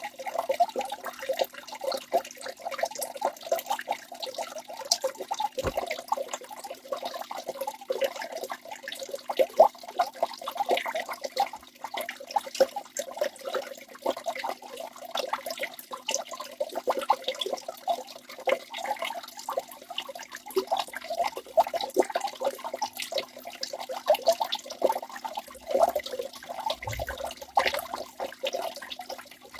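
Waterfall: water splashing and rushing continuously, a dense steady patter of small splashes with little deep rumble.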